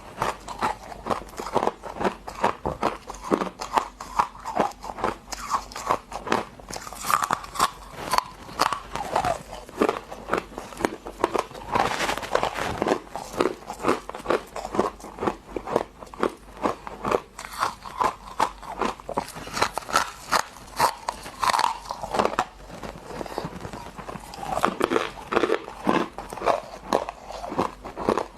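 Close-up chewing of hard freezer frost: rapid, repeated crunches as the ice is bitten and ground between the teeth, several crunches a second.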